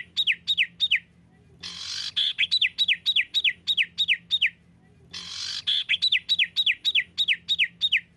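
Songbird song played as a repeated phrase, three times: a harsh rasping note running into a rapid string of about eight falling whistles, roughly five a second, each phrase about three seconds long with sharp silent gaps between. This is a 'tembakan' rapid-fire song looped as masteran audio for teaching captive songbirds.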